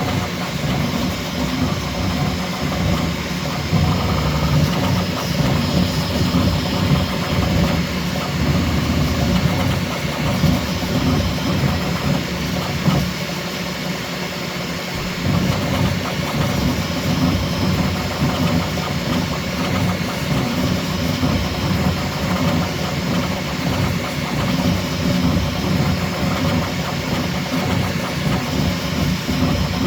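Bambu Lab X1C 3D printer printing at its fastest ('Ludicrous') speed setting: stepper motors buzz and warble in constantly changing pitch as the print head darts about, over the steady whir of the fans. It eases off briefly about halfway through.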